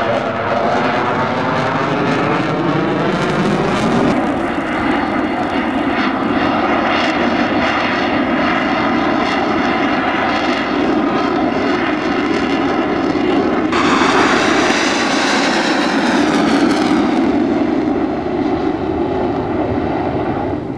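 Aircraft engine of a display aircraft flying past, its pitch gliding in the first few seconds. The sound brightens sharply about fourteen seconds in, then fades back over the following seconds.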